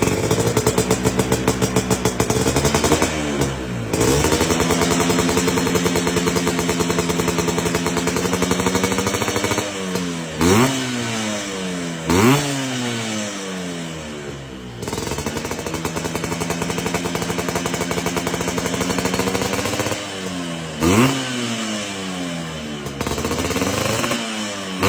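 Vespa scooter engine running through a DRC Cobra aftermarket racing exhaust with a carbon silencer. It is held at steady raised revs for several seconds at a time, with a few quick throttle blips that rise sharply and fall back, around the middle and again near the end.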